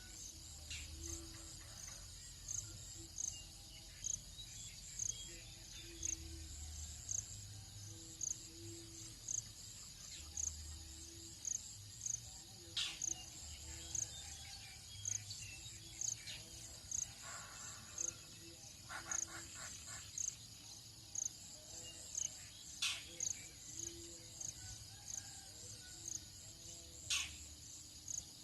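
Tropical dawn chorus of insects: a steady high-pitched chirping that pulses about once a second, with a few sharp falling bird calls and a repeated low note underneath.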